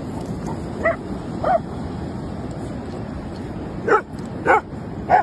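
A dog barking in five short, sharp barks: two spaced apart in the first couple of seconds, then three in quicker succession near the end, over a steady low background noise.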